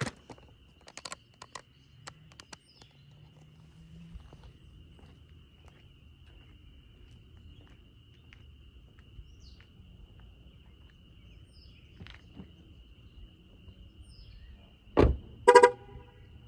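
Footsteps crunching on a gravel parking lot. About fifteen seconds in come a loud thump and then a short car-horn toot.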